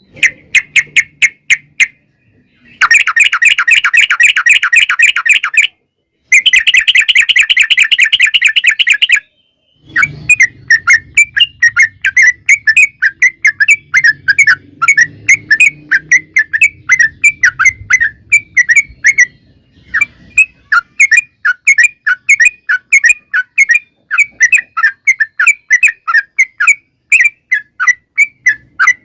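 Yellow-vented bulbul (trucukan) song: two dense, very rapid chattering trills broken off by abrupt short gaps, then a long run of quick repeated chirps at several notes a second.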